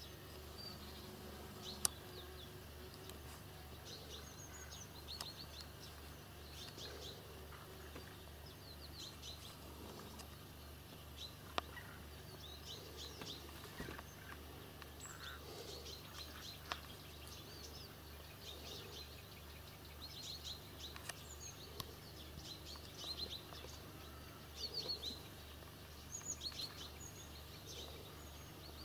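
Small birds chirping faintly in short, quick clusters, with a few sharp clicks.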